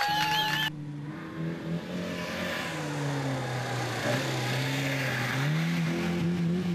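Rally car engine under load. Its pitch drops as the throttle eases, then climbs again as it accelerates.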